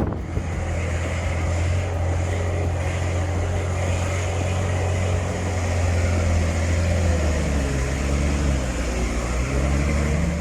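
A heavy vehicle's engine running steadily under load with a deep drone; its pitch wavers up and down in the last few seconds.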